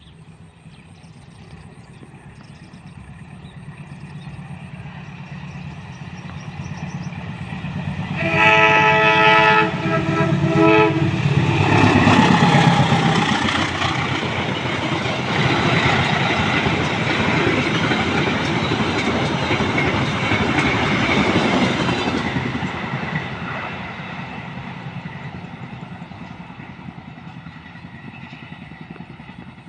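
A train approaches and sounds its horn twice, a longer blast and then a shorter one. It then passes close by with a loud rushing rumble that builds, holds for about ten seconds and fades away.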